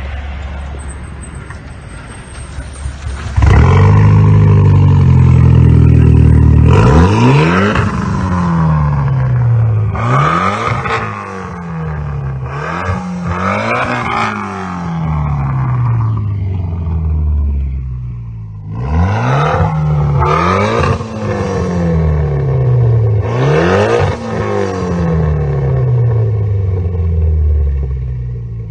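Mitsubishi Lancer Evolution X's turbocharged 2.0-litre four-cylinder running through an aftermarket exhaust and downpipe. It idles, then runs loud and steady for about three seconds, then is revved in a series of quick blips, each rising sharply and falling back slowly, in two groups with a short idle between.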